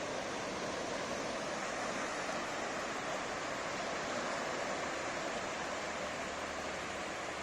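Ocean waves breaking on a sandy beach: a steady wash of surf with no single distinct break standing out.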